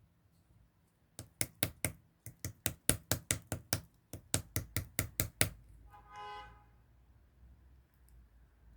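A run of about twenty sharp taps or clicks, coming four or five a second in short groups, then stopping; about a second later comes a brief pitched beep-like tone.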